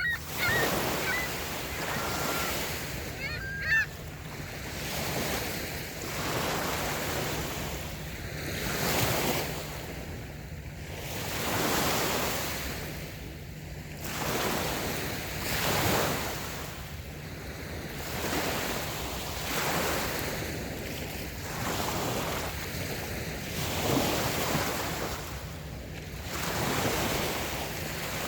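Light waves breaking and washing up a sandy beach, each wave swelling and falling away every two to three seconds. In the first few seconds a bird calls a few short times over the surf.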